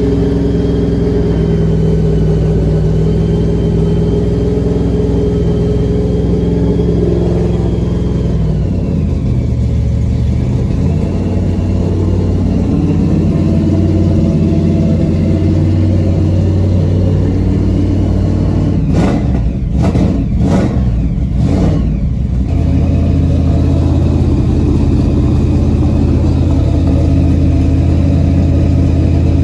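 Supercharged 468 big-block Chevy V8 with a 6-71 blower and big cam, running at a fast idle just after a cold start while it warms up. The idle speed shifts a couple of times, and a run of four short sharp noises comes about two-thirds of the way through.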